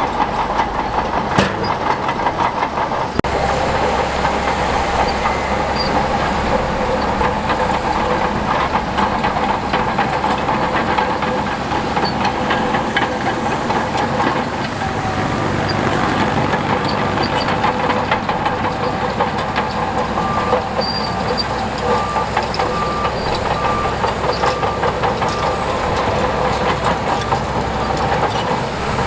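Crawler bulldozer's diesel engine running steadily under the dense clatter of its steel tracks. A faint, regular beeping comes in for several seconds past the middle.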